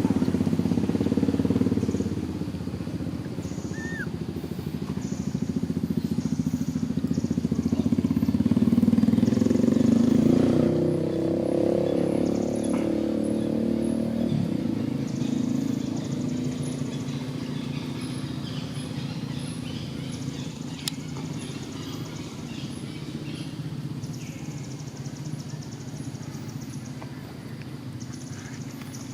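A motor vehicle engine running, getting louder about eight to ten seconds in, then slowly fading away.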